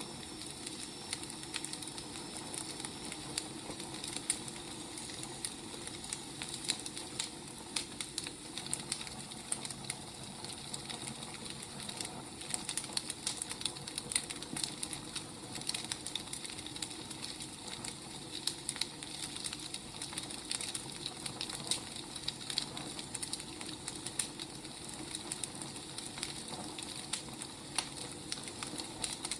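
Wood fire crackling: a steady hiss dotted with many small, irregular pops and snaps.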